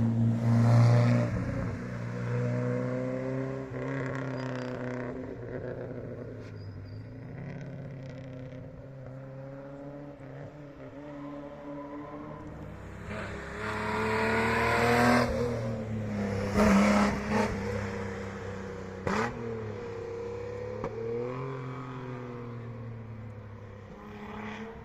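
Historic rally car engines at full throttle as cars pass on a closed stage, revving up through the gears and falling away. The loudest pass comes about halfway through, with a single sharp crack a few seconds later.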